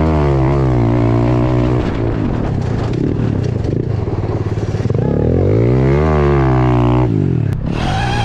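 Honda CRF110 pit bike's small four-stroke engine being ridden hard on a dirt track, revs rising and falling with the throttle. The revs drop and go rough and choppy in the middle, then climb and fall again. A higher whine joins near the end.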